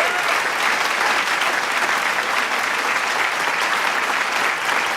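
Large crowd applauding with dense, steady clapping and cheering.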